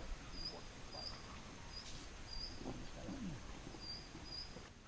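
A small bird calling with short, high chirps repeated at irregular intervals, over faint outdoor background noise.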